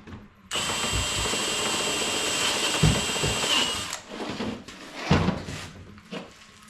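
Cordless drill with a step bit running for about three and a half seconds, with a steady high whine as it widens a conduit hole in a Tesla Wall Connector's housing, then stopping suddenly. A few knocks follow as the part is handled.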